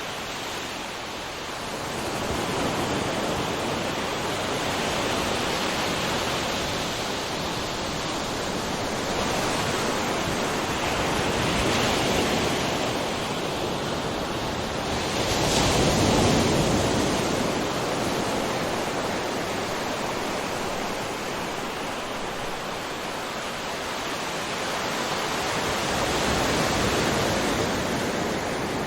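Ocean waves breaking on a shore, a continuous rushing wash that swells and ebbs, with the largest wave building and breaking about halfway through.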